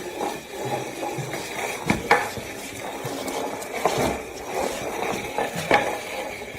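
Light clattering and knocks of hard household objects being handled, over a steady noisy background, with the sharpest knocks about two seconds in, about four seconds in and near the end.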